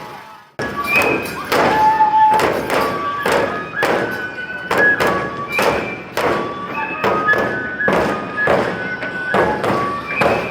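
Neputa festival music: large taiko drums beaten in a steady rhythm, about two to three strokes a second, with short high flute notes over them. The sound cuts out briefly just after the start, then picks up again.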